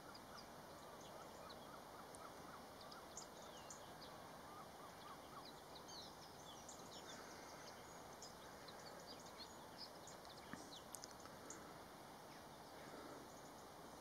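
Faint outdoor background hiss with many short, high-pitched bird chirps scattered throughout, and a quick run of lower, softer notes during the first five seconds or so.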